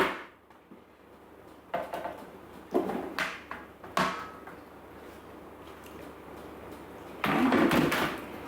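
Kitchenware being handled: a few short knocks and clatters in the first half, then a louder clatter lasting about a second near the end.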